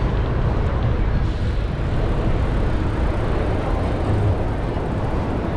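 Steady city traffic noise with a low wind rumble on the microphone as the bicycle rides along.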